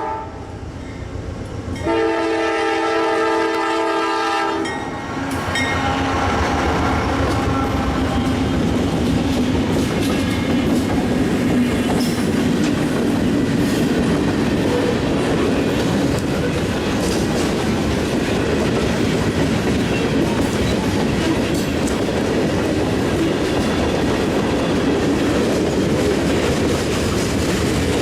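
Train horn sounds a chord of several tones for about three seconds, then a train rolls past with a steady rumble and wheels clicking over the rail joints.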